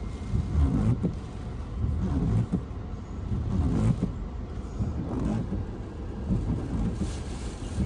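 Hurricane eyewall winds buffeting a vehicle, heard from inside the cabin: a low rumble that swells and fades in gusts, with a few brief knocks.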